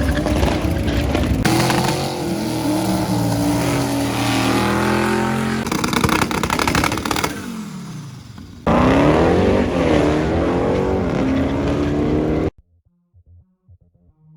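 Turbocharged five-cylinder engine of a Volvo V70 drag car revving and pulling hard, its pitch rising and falling across several abruptly cut-together clips. About 12.5 s in the engine sound cuts off, leaving only a faint low pulsing.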